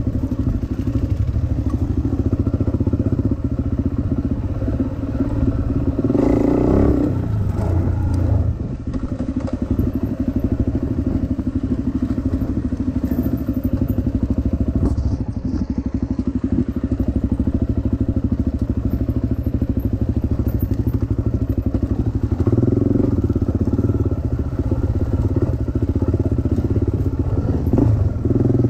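Dirt bike engine running as it is ridden, revs rising and falling; it revs harder about six seconds in, eases off around eight seconds, and pulls harder again near the end.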